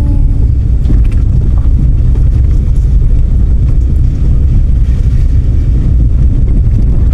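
Steady low rumble of a car on the move, engine and road noise heard from inside the vehicle.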